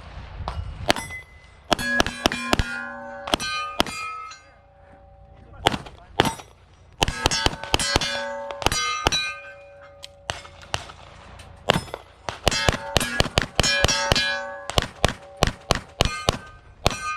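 Rapid pistol fire on steel targets, the shots coming in three quick strings, with the steel plates ringing at several pitches after each hit.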